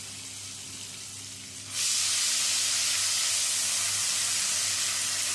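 Hot mustard oil frying quietly, then breaking into a loud, steady sizzle about two seconds in as wet onion, ginger and green chilli paste goes into the pan.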